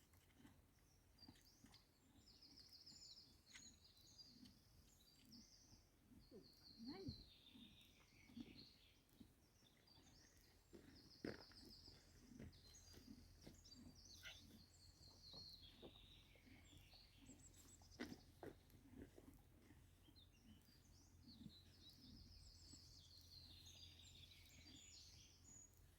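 Faint songbird song: phrases of quick high trills and chirps return every few seconds, over a low background hum with a few soft clicks.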